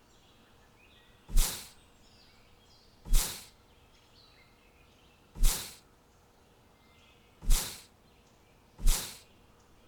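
Five sharp, short noise bursts at uneven intervals, each fading within about half a second, over faint bird chirping.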